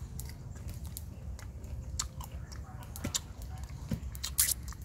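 A person chewing a mouthful of crisp unripe green mango, with irregular crunches and wet mouth clicks; one sharper click comes near the end. A steady low rumble runs underneath.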